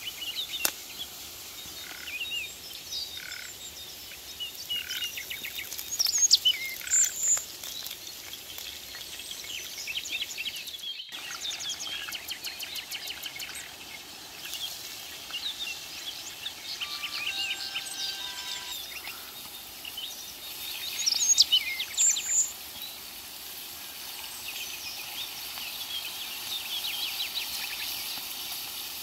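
Songbirds singing and calling over a steady outdoor background hiss, with two louder bursts of quick chirps about six and twenty-one seconds in.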